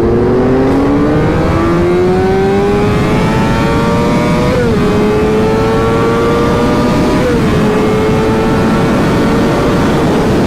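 Motorcycle engine accelerating, its pitch rising steadily and dropping briefly twice, about four and a half and seven seconds in, as it shifts up a gear each time. Wind rush runs underneath.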